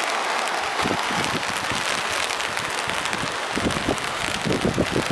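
Outdoor wind on the microphone: a steady rushing hiss, with gusts buffeting the microphone from about three and a half seconds in.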